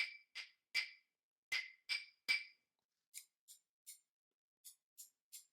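Rhythms tapped on wooden sticks (chopsticks) struck together: six sharp, ringing clicks in the first half, then six lighter clicks in a similar pattern.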